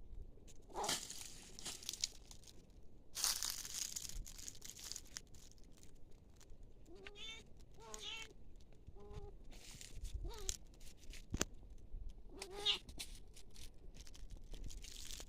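About five short animal calls, each bending up then down in pitch, come in the second half. They follow bursts of rustling near the start.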